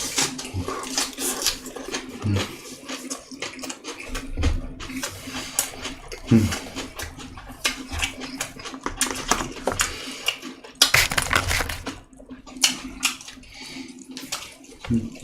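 Close-miked chewing and wet mouth smacking while eating, in an irregular run of short moist clicks and squelches.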